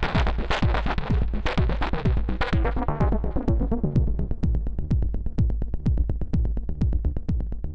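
Techno pattern on the Eowave Weather Drones 1.5 synth voice, its wave-folded triangle oscillators bright and dense over a steady kick about twice a second. From about three seconds in the bright top falls away and the sound thins to a dull, fast rhythmic pulsing.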